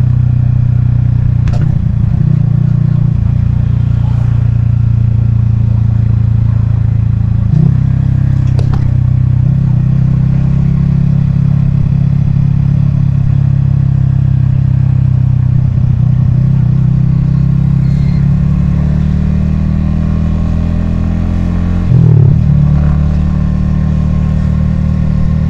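Yamaha XSR155's 155 cc single-cylinder engine running steadily under way, recorded from the rider's helmet, with a few faint clicks and a brief louder moment near the end.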